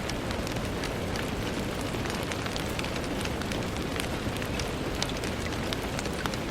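Steady rain on a window, a constant hiss with many small drops ticking sharply against the glass.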